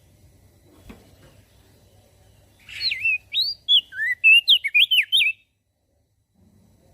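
Crested white-eye (opior jambul) singing: a fast phrase of about a dozen whistled notes sweeping up and down, lasting about two and a half seconds and starting a little before the middle, over a faint low hum.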